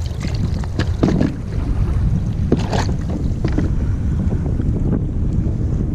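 Wind buffeting the microphone on a kayak out on the water: a loud, steady low rumble, with a few short knocks or splashes in the first four seconds.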